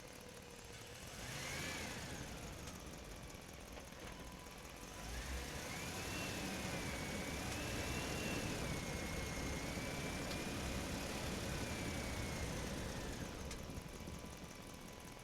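Small electric motor of a remote-control toy vehicle whining as it runs: a short burst about a second in, then a longer run from about a third of the way through, its pitch rising and falling with the load.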